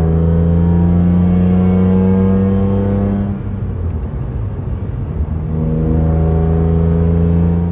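BMW E46 M3's S54 straight-six engine heard from inside the cabin, pulling under load with a slowly rising note. About three seconds in it eases off and goes rougher and quieter, then pulls again from about five and a half seconds on.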